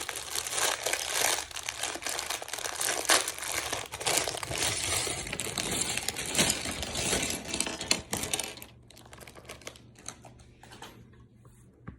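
A thin plastic LEGO parts bag crinkling and being torn open, a dense crackle for about eight seconds, then quieter with a few light clicks.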